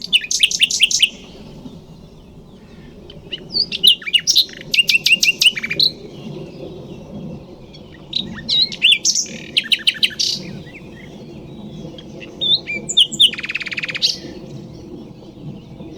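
Nightingale singing: four song phrases of fast repeated notes and whistles, each a second or two long, separated by pauses of about two seconds.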